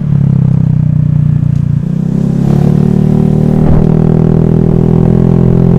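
Honda Vario scooter engine running under way, a steady drone that eases briefly about two seconds in and then picks up again.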